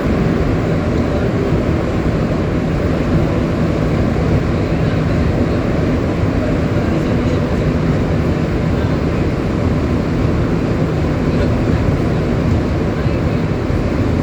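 MR73 rubber-tyred metro train running steadily at speed between stations: a loud, even rumble of running gear and motors.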